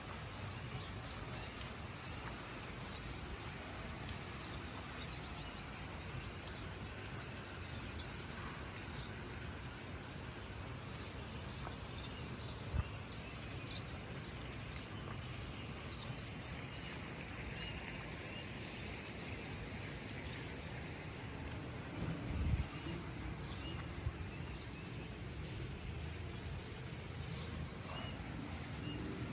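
Outdoor nature ambience: a steady background hiss with scattered short, high bird chirps throughout, and two brief low thumps partway through.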